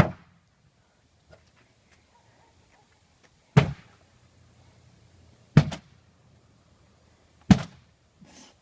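Heavy hammer blows striking a junk refrigerator's cabinet: four loud thuds, roughly two seconds apart, with a lighter knock near the end.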